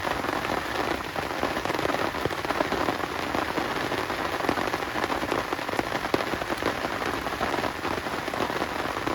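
Heavy rain falling steadily, with many close, sharp drop strikes on a surface.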